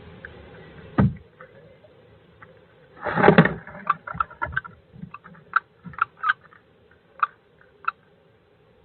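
Birds moving and scuffling inside a wooden nest box. There is a sharp thump about a second in, then a loud scrabbling burst around three seconds in, followed by scattered short scratches and taps.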